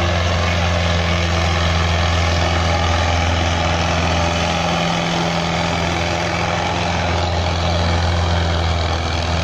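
Indo Farm 3055 tractor's diesel engine running steadily with a deep, even hum that dips slightly about halfway through.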